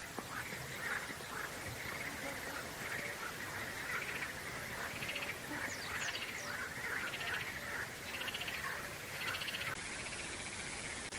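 Songbirds singing, a steady run of short chattering, buzzy phrases about once a second.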